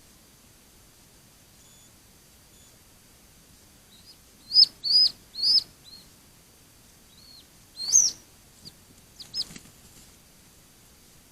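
A small bird calling with short, high, arching chirps: three in quick succession a little before the middle, then a few single ones later.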